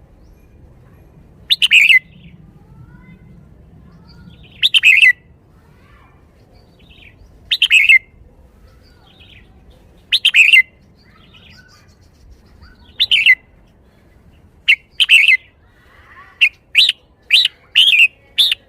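Red-whiskered bulbul singing loud, short whistled phrases about every three seconds, then a quicker run of short notes near the end: the 'shaking bottle' song style prized by Thai bulbul keepers.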